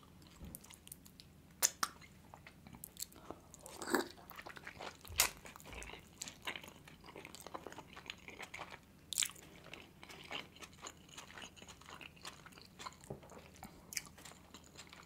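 Close-miked chewing and wet mouth sounds of eating juicy steamed meat dumplings (manti), with many short irregular clicks and smacks. Now and then a fork clicks and scrapes against the plate while cutting the dumpling.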